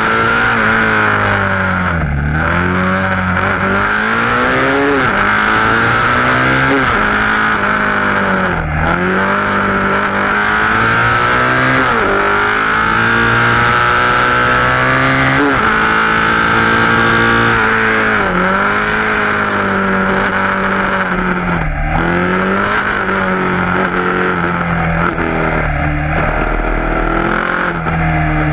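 KTM Duke 690 single-cylinder engine with an Akrapovic exhaust, pulling hard under acceleration. The pitch climbs repeatedly and drops sharply at each gear change, and in between it eases back as the throttle closes.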